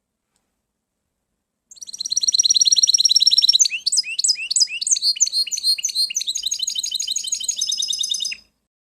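A songbird singing one long song of about seven seconds, starting about two seconds in: a fast trill of repeated high notes, then a run of varied notes sweeping down and up, closing with another quick trill.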